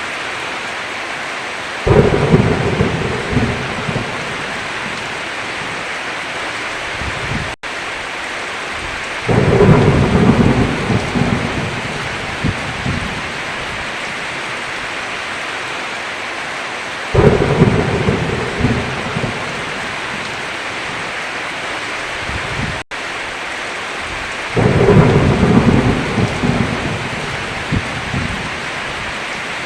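Steady heavy rain with four sudden claps of thunder, each rumbling and fading over two or three seconds. The sound drops out for an instant twice.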